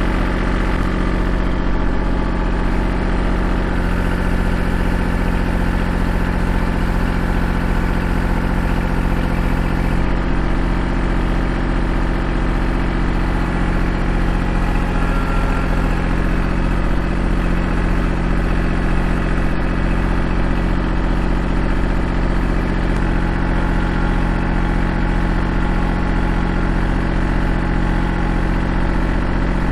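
Kubota L2501 compact tractor's three-cylinder diesel engine running at a steady speed.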